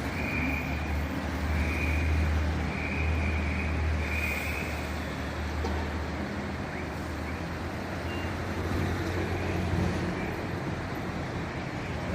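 Fire truck's diesel engine running steadily, with several high warning beeps in the first four seconds or so.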